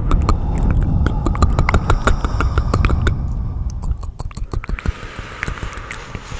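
Layered ASMR trigger sounds: a dense run of small clicks and taps over a low rumble, the rumble easing off about four seconds in.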